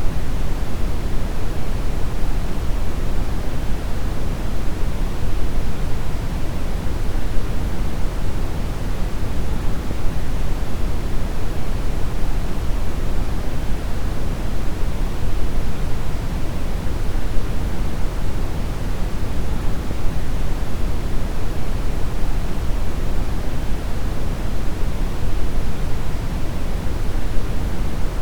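Steady brown noise: an even, deep rushing hiss, strongest in the bass and falling away toward the treble, with no change.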